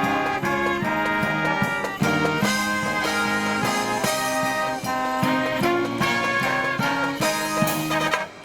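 Live marching brass band playing a Christmas medley: trumpets and trombones over percussion keeping a steady beat, with a brief break just before the end.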